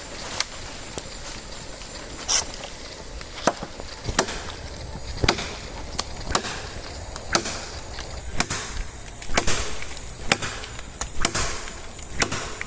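Machete chopping a dead branch, a sharp woody strike about once a second, with a few harder blows among them.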